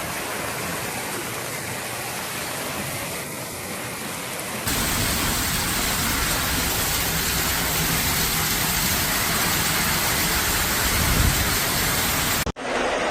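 Steady rushing noise of heavy rain. About 4.7 s in it switches abruptly to a louder, fuller rush with more low rumble, and it cuts off briefly near the end.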